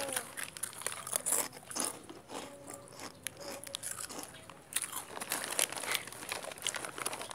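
Crunchy food being bitten and chewed close to the microphone: a run of irregular, crisp crunches.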